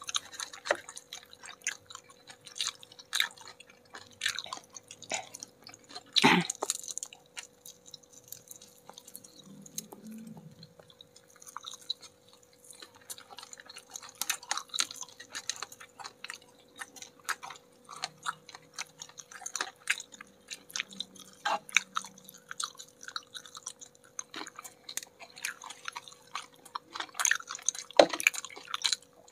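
Two people chewing crispy battered fried chicken wings close to the microphone: irregular crunching and crackling of the coating with wet smacking mouth sounds. There is a sharper crack about six seconds in and another near the end, over a faint steady hum.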